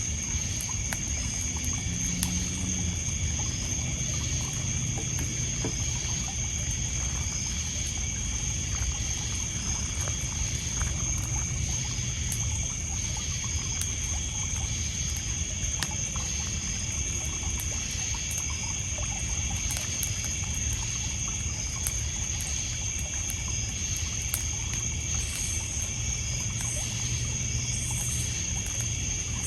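Night lakeside ambience: a steady high insect trill of crickets over water lapping and splashing on a pebble beach, with scattered small crackles from a wood campfire.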